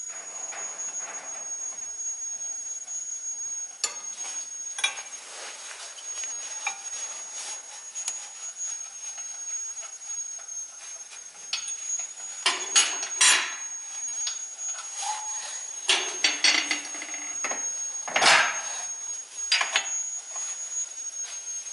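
Hand tools knocking and clinking against metal during suspension work, scattered light taps with louder clanking clusters about halfway through and later. A faint steady high whine runs underneath.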